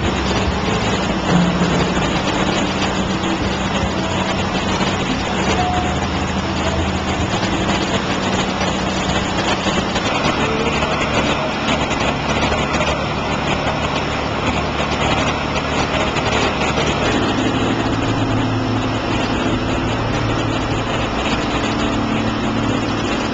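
Boat engine running steadily under way, its note shifting slightly about ten seconds in and again near seventeen seconds.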